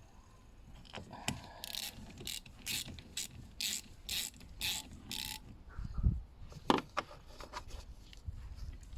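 Ratchet wrench rasping in short, even strokes, about two a second, as bolts are tightened down on a part just refitted to seal. About six seconds in come two sharp, loud clicks.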